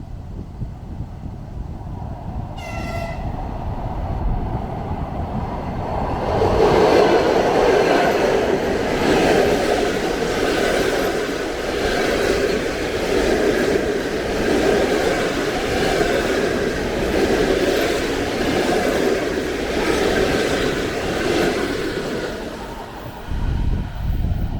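A train gives a short horn blast about three seconds in, then passes close by: a loud rumble and clatter of wheels over the rails that builds up, holds with an even pulsing beat for about fifteen seconds and drops away near the end.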